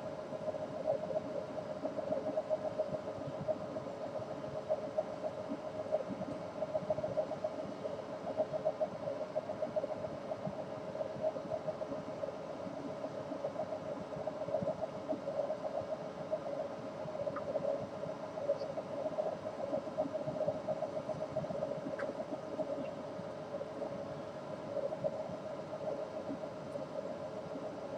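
Steady droning hum over a noisy rumble, unchanging throughout, with no bird calls standing out.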